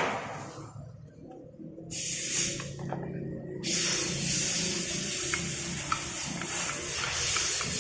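A spray nozzle hissing on the engine parts. There is a short burst about two seconds in, then steady spraying from about three and a half seconds on, with faint small ticks over it.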